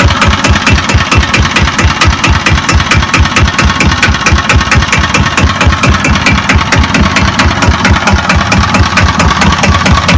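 Kubota EA-300-AR single-cylinder diesel engine running steadily at low idle, with an even beat of about six to seven firing pulses a second.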